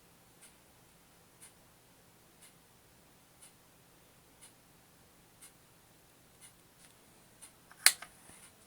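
Faint steady mains hum from an Odyssey 010 amplifier: the 50 Hz hum fault it was brought in to be repaired for. A faint tick about once a second runs through it, and there is one sharp click about eight seconds in.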